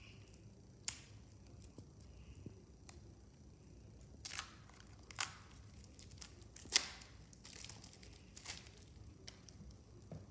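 Irregular scratching and scraping strokes of a hand tool on a fossil kit's plaster block, with a few sharper clicks and louder scrapes in the second half.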